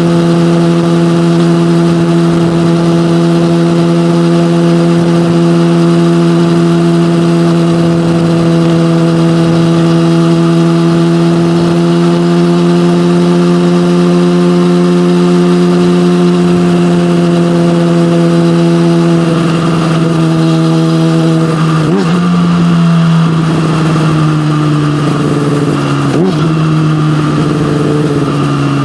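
Yamaha motorcycle with an SC-Project aftermarket exhaust riding at steady revs, the engine note creeping slightly higher. About two-thirds of the way in it eases off and the revs fall, with a couple of brief throttle blips as it slows.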